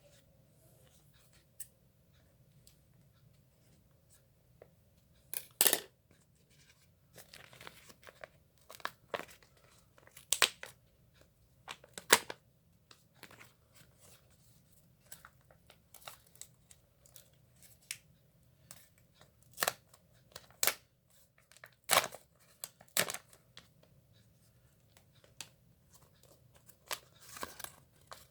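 Packaging being handled and torn open by hand: irregular crinkling, ripping and sharp clicks, with a few louder rips scattered through.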